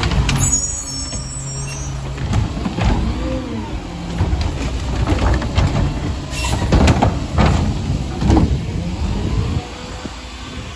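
Mack LR garbage truck with a McNeilus Meridian rear-loader body, its diesel engine running and revving up and down, with repeated clanks and knocks. The loudness drops clearly about a second before the end.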